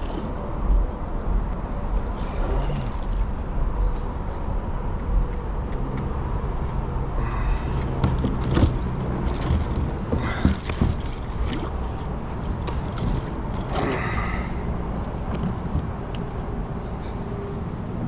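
Steady low noise, like wind on the microphone, with scattered knocks and scrapes as a just-landed walleye is handled in a kayak.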